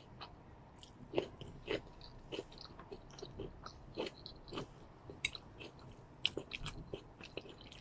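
A person chewing a mouthful of stir-fried vegetable noodles close to the microphone: soft, irregular mouth clicks and smacks, at times several a second.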